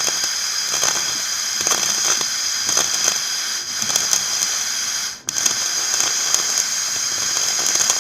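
Electric arc welding a repair seam on a broken scooter: the steady crackling hiss of the arc, cut for a moment about five seconds in as the arc breaks, then struck again.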